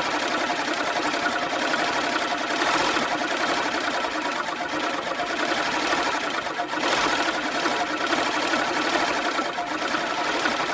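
A small machine running steadily, with a fast, even mechanical chatter.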